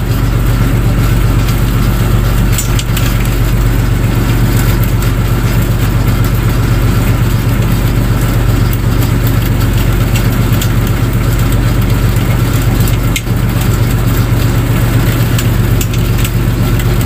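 A boat's engine running steadily with a constant low hum, plus a couple of faint clicks or knocks.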